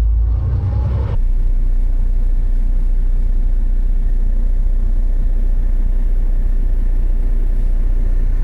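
Steady low rumble of a Volvo semi-truck, heard from the cab. About a second in, the sound changes abruptly to a steadier, even hum.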